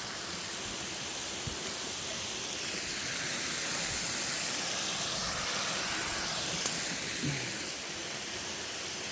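Rushing water from a waterfall: a steady hiss that swells a little in the middle.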